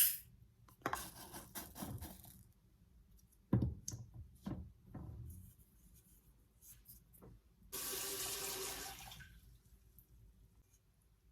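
Kitchen tap running into the sink for about a second and a half, with knocks and clatter of things being handled at the sink before it.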